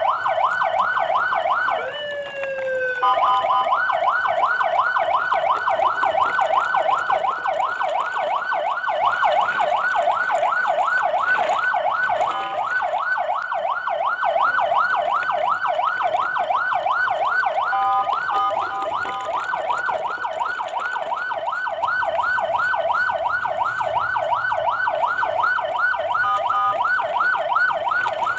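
Electronic emergency siren in a fast yelp, warbling up and down several times a second without pause. Near the start it breaks briefly into a slow falling tone, and it switches for a moment to a steady two-tone note a few times.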